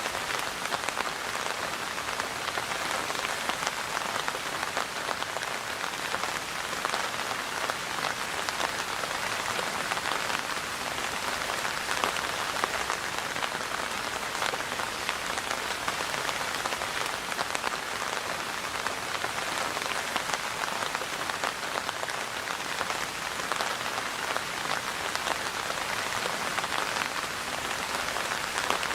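Steady rain falling on a surface, an even hiss dense with fine pattering drops, unchanging throughout.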